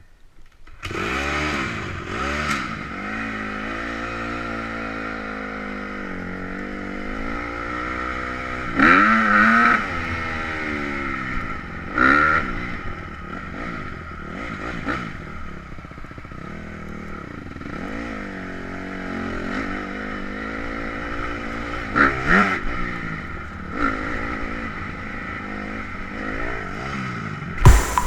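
Pit bike's single-cylinder engine being ridden hard around a track, revving up and falling back again and again as the rider works through the gears, with louder bursts of throttle now and then.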